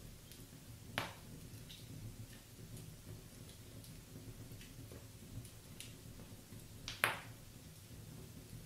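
Wood fire burning in a fireplace: logs crackling with scattered small ticks and two louder sharp pops, about a second in and about seven seconds in.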